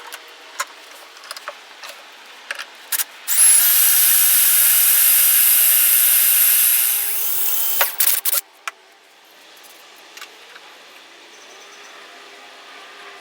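Electric drill running at high speed with a steady high whine for about four seconds, drilling a hole in the metal tool rest holder, then winding down. Scattered clicks and knocks come before it and just after it stops.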